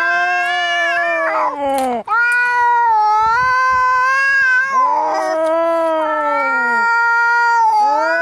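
Angry cats caterwauling in a fight: long, drawn-out yowls of two to three seconds each, swelling and sliding down in pitch, following one another with only short breaks.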